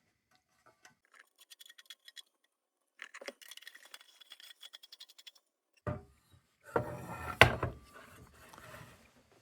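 Small metal and plastic lantern parts being handled: scattered light clicks, then a run of rapid small ticks and clinks, then louder handling noise with one sharp click partway through.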